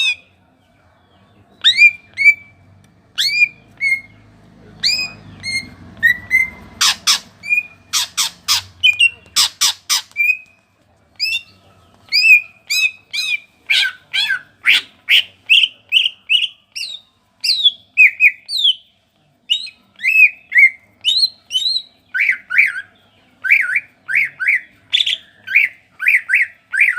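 Green leafbird (cucak ijo) singing hard: loud, sharp, downward-slurred whistled notes repeated in quick succession, with a group of very abrupt clipped notes about a third of the way in and fast rattling runs later. This is the bird's full 'tembakan' burst song, delivered by a cage bird in moult.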